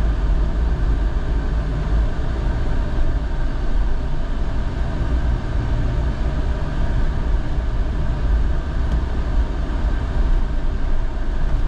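A car driving slowly: a steady low rumble of engine and road noise with no change through the stretch.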